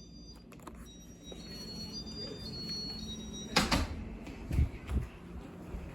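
Ceiling fan running with a steady motor hum and faint high whining tones. A loud brief rustle comes about three and a half seconds in, followed by two dull thumps.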